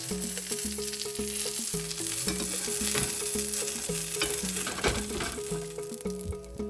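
Chicken kebab patties sizzling as they fry in a pan, a steady crackling hiss, with background music playing over it.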